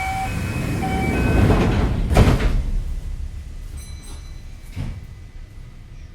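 Kintetsu 5800 series train's sliding passenger doors closing: a rush of air and rumble, then a heavy thud as they shut about two seconds in. Two short beeps sound in the first second, and a few lighter knocks follow as it settles.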